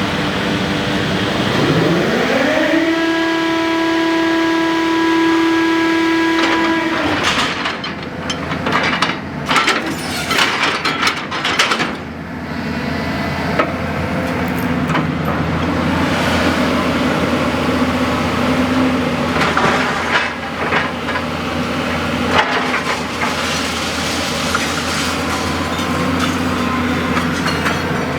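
Hydraulic scrap metal baler compressing rebar. A whine rises for about two seconds and holds steady for several seconds, then sharp metallic clanks and cracks come as the rebar is crushed. A steady hydraulic hum follows, with occasional knocks.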